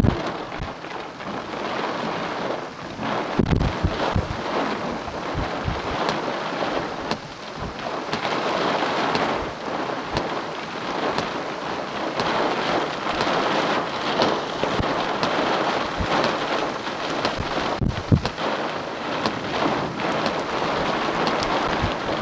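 Heavy thunderstorm rain falling in a dense, steady hiss, with a couple of brief low buffets of wind on the microphone.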